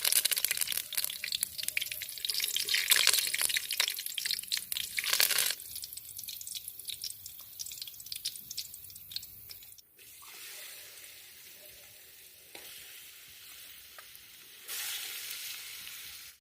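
Food sizzling and crackling in a hot pan, with dense rapid popping for the first five seconds or so, then a quieter steady sizzle that swells again near the end.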